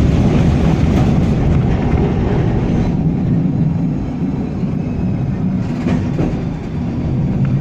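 W6-class tram running along the track, heard from on board: a steady low rumble of wheels on rails and running gear, with a few faint knocks and rattles.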